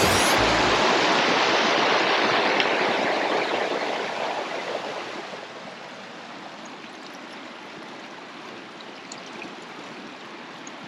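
Creek water running, a steady rushing noise. It is loud at first and eases to a quieter, even level about halfway through.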